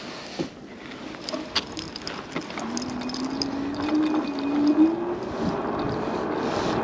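Electric scooter riding along, its hub motor giving a whine that rises slowly in pitch from about three seconds in as it picks up speed, over steady tyre and wind noise with scattered light clicks.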